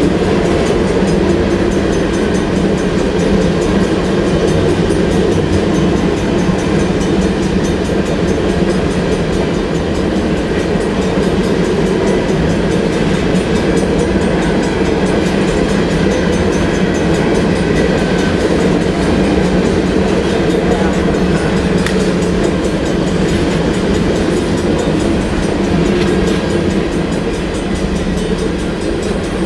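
Empty covered hopper cars of a long freight train rolling past: a steady, loud rumble of steel wheels on rail.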